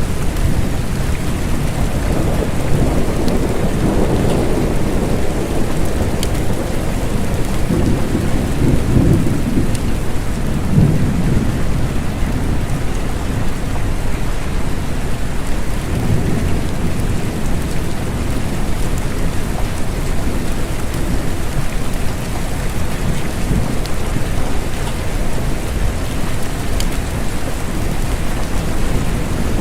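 Steady rain, with low rolling thunder rumbling through the first half.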